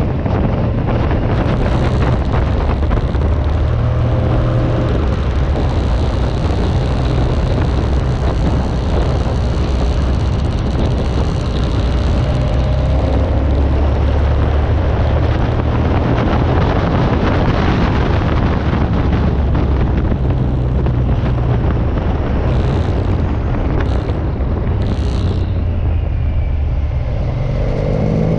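Motorcycle riding at road speed: the engine is a steady low drone under heavy wind noise on the microphone. Near the end the engine pitch climbs as it accelerates.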